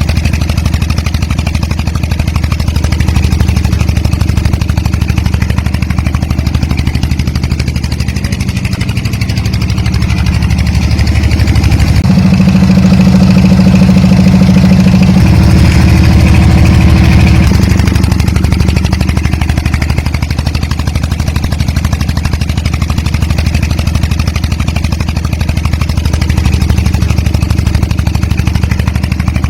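The motor of a DIY miniature model tractor running with a steady low hum. For a few seconds in the middle it runs louder and higher in pitch, then settles back.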